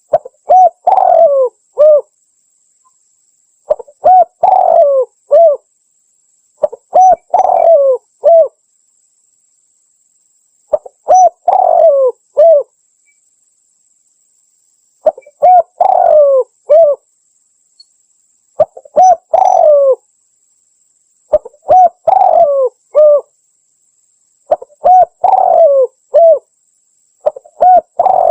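Spotted dove (tekukur) cooing loudly: nine repeats of the same phrase of several coos, a longer falling note in the middle and two short coos to close, one phrase every three to four seconds with silence between.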